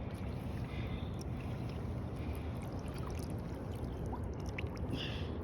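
Steady rush of flowing creek water with a low rumble and a few faint clicks.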